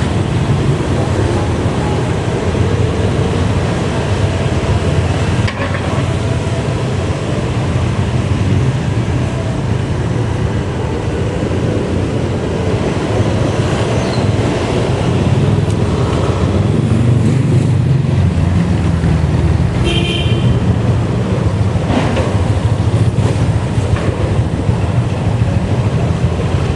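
Steady low rumble of wind on the microphone and road noise from riding a bike. A brief high squeak about twenty seconds in and a sharp click a couple of seconds later.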